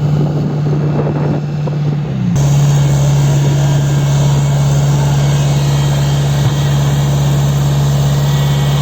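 Tata Hitachi Zaxis 120 excavator's diesel engine running steadily with a loud, even hum. Its pitch drops slightly a couple of seconds in.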